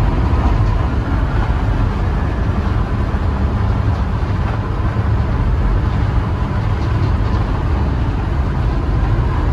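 Steady low rumble of a vehicle driving at road speed, heard from inside the cab.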